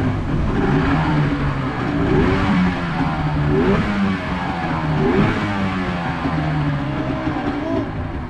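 150 hp Yamaha outboard motor running under way, its pitch rising and falling again and again as the engine speed changes.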